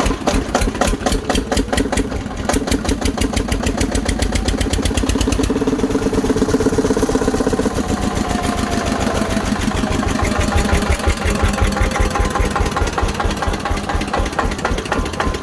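Single-cylinder tractor engine running, its firing beats evenly spaced; it speeds up for a few seconds and then drops back to a slower idle about five seconds in. It is running again after standing unused for three years.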